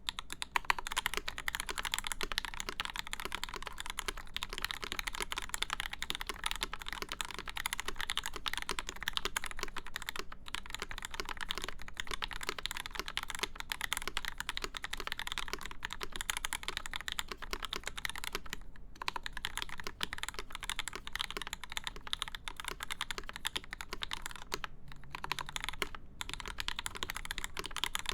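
Continuous fast typing on a CFTKB Discipline v2 mechanical keyboard with lubed Gateron Ink linear switches, a full aluminium plate, an acrylic case and GMK keycaps: a dense stream of key clacks, broken by a few brief pauses.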